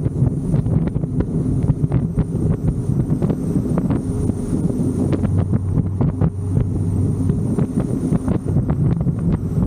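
Big-cam LS7 V8 of a C6 Corvette Z06 running steadily, with wind buffeting the microphone.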